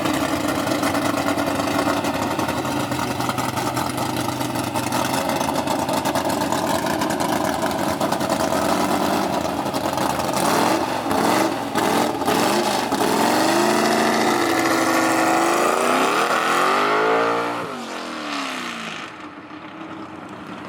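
A car engine running loudly and steadily, then revved several times, the pitch rising and falling, before the sound drops off and fades near the end.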